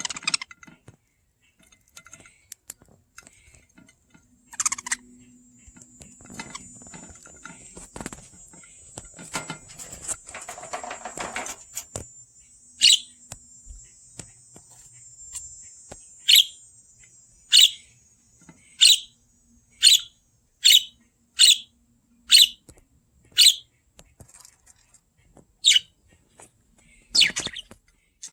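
Pet budgerigars chirping: soft high warbling chatter with scattered small clicks at first, then a run of about eleven loud, sharp chirps, each dropping quickly in pitch, roughly one a second.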